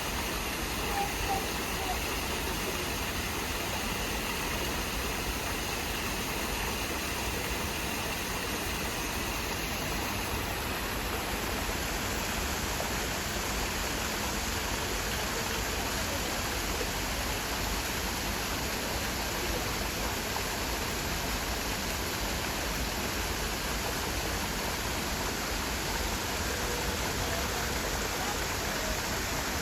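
Naena Falls, a large waterfall, with its falling water making a steady, even rush.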